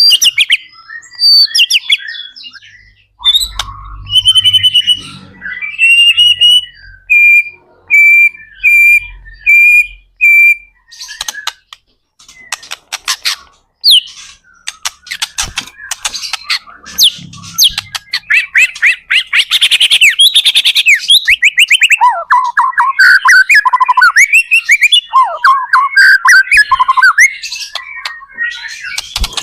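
White-rumped shama (murai batu) singing energetically in varied phrases. Near the middle it gives a run of about six evenly spaced clear whistled notes, and in the second half fast trills and a dense, rapid warble.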